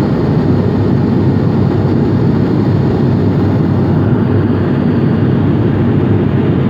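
Steady drone of an ATR 72-500's twin turboprop engines and propellers heard inside the cabin in flight, a dense low rumble with no change in pitch.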